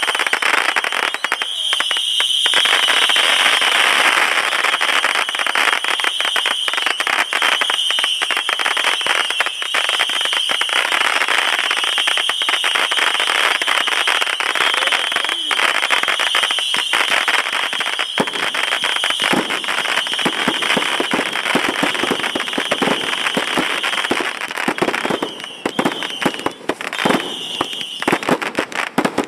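Fireworks barrage: a dense, continuous crackle of many small pops and bangs, with a steady high-pitched tone underneath. The crackle thins into more separate pops from about 25 seconds in.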